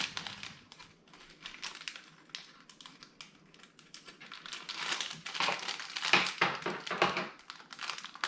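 Plastic LEGO parts bag crinkling while small plastic bricks click and rattle against each other. It is sparse at first and busier and louder from about halfway through.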